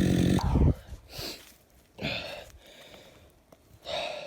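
Chainsaw engine running steadily, then cut off suddenly just over half a second in. Afterwards come three short, heavy breaths by the saw operator.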